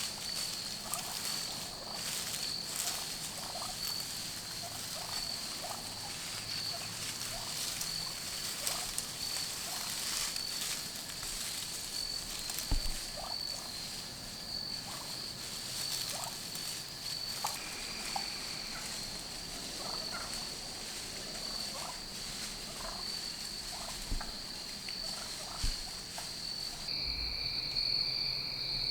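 Outdoor woodland ambience: a steady high-pitched drone with many short animal calls scattered through it, and a few soft thumps. Near the end a second, lower steady tone joins the drone.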